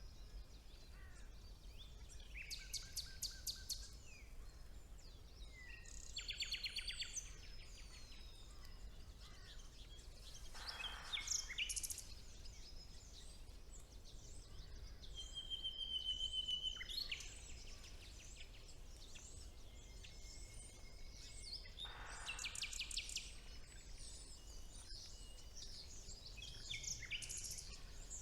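Songbirds singing in spring woodland, with a common nightingale's varied song: separate phrases every few seconds of fast repeated-note trills, chirps and short whistles, one held whistle a little past the middle. A faint steady low background rumble runs beneath.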